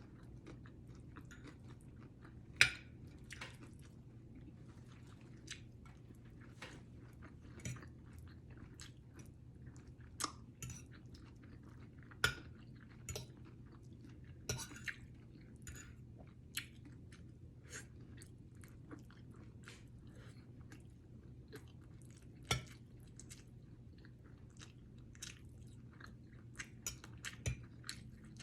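A person chewing and biting food close to the microphone: irregular crunches and mouth clicks, the loudest a sharp crunch about two and a half seconds in and another about twenty-two seconds in, over a steady low hum.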